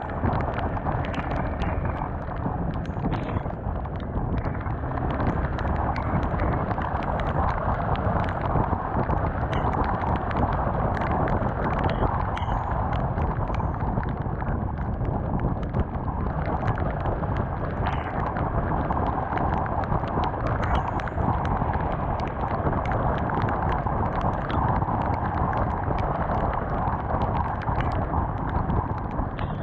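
Honda CBR250R motorcycle ridden in the rain, heard from a GoPro on the bike: steady rush of wind and road noise, with many short ticks scattered through it.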